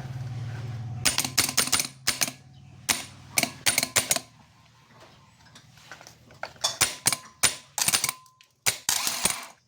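A steady low hum that stops about a second in, then a string of sharp, irregular metallic clicks and clacks: tools and parts being handled during work on a rebuilt starter motor.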